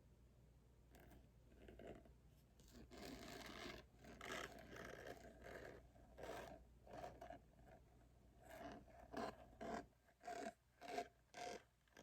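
Hands handling unboxing packaging: quiet scraping and rubbing, ending in a quick run of short, separate scratching strokes.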